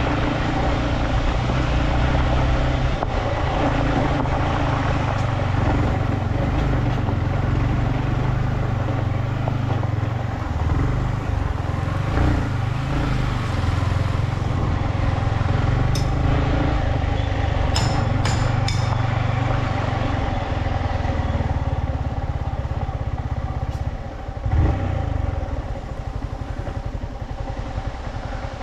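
Motorcycle engine running as it is ridden over a rough, unpaved track, with a few short high squeaks in the middle. About 24 s in it eases to a lower, quieter running.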